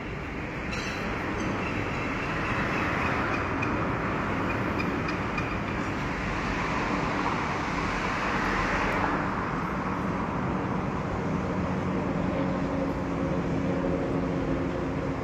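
Electric commuter train running on the rails: a steady rumble with a louder rushing swell that fades about nine seconds in, followed by a steady hum.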